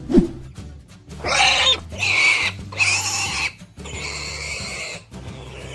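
Pig calls from a cartoon pig, four in close succession, after a short low thump at the start.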